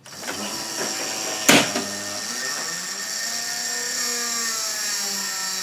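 Desktop computer switched on: its fans spin up and whir steadily, with a sharp knock about one and a half seconds in. A loose cable is catching on a fan.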